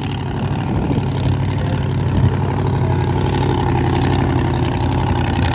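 Racing boat engine running loud and steady on a warm-up lap.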